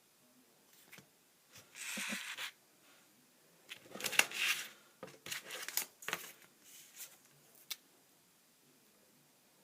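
Trading cards being handled: two rustling swishes about two and four seconds in, then a run of small clicks and taps.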